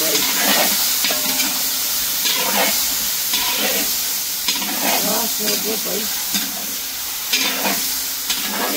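Chicken frying in hot oil in a karahi, a steady sizzle, with a few sharp clicks from the cook working the pot.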